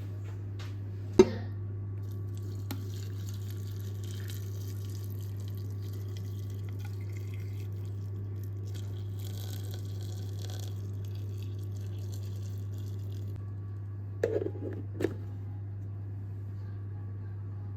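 Water running, a steady hiss that stops after about thirteen seconds, over a constant low hum. A sharp knock comes about a second in, and a few quick clinks follow near the end.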